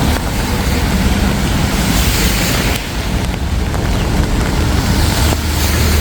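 Road traffic passing: vehicle engines running with a steady low hum and tyre noise, the hiss swelling briefly about two seconds in.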